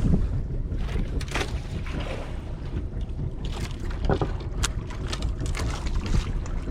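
Steady low rumble aboard a small fishing boat at sea, with a few short knocks and clicks over it.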